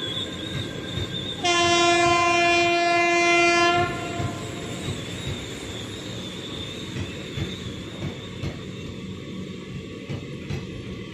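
An Indian Railways train running close by, its wheels clattering over the rail joints with a faint high squeal. About a second and a half in, the locomotive sounds one long horn blast on a single steady note lasting a little over two seconds.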